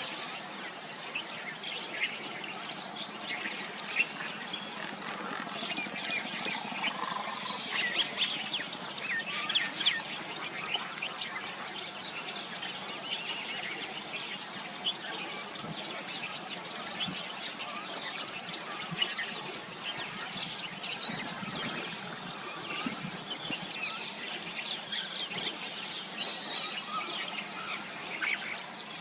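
Myna birds chirping and chattering in many short, irregular calls over a steady high insect drone.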